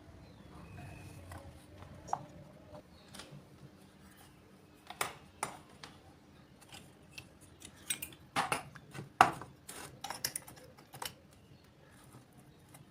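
Irregular small clicks, snips and snaps of hand work on small parts, bunched in the middle and loudest about nine seconds in.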